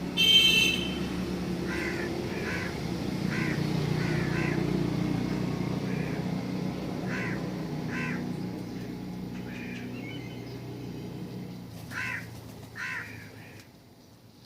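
Birds at a feeder calling: a loud call right at the start, then a run of short, crow-like caws about a second apart, and two more near the end. A steady low hum runs underneath and fades toward the end.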